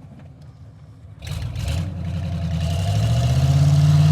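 Truck engine idling low, then about a second in it picks up and revs, its pitch climbing steadily and getting louder.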